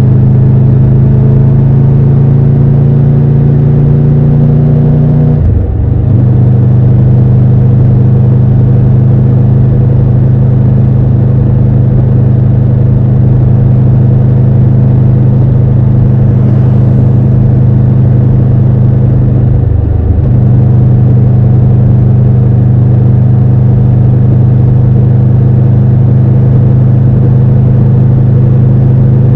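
Triumph Tiger 1200 Rally Pro's inline three-cylinder engine running loud and steady under way. The note rises slightly over the first few seconds and dips briefly about six seconds in and again about twenty seconds in.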